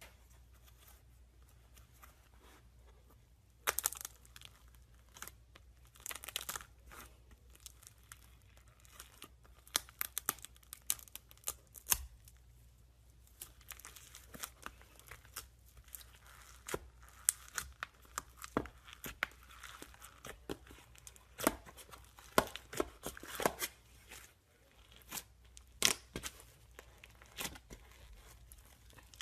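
Slime being squeezed and stretched by hand, crackling and popping with sharp irregular clicks that come in clusters, starting a few seconds in.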